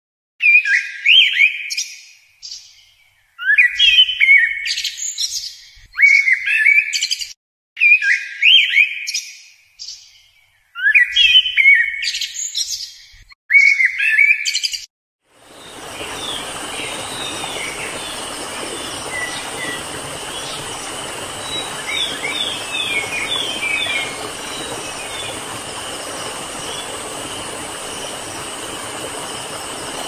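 A songbird singing short, loud warbled phrases about every two seconds, with silence between. About halfway through this gives way to a steady background hiss with a high, even tone and a few soft chirps.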